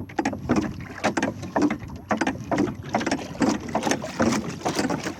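Water splashing and slapping around a small boat in quick repeated bursts, about two a second.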